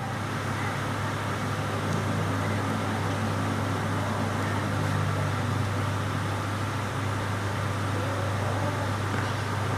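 A steady low mechanical hum over even background noise.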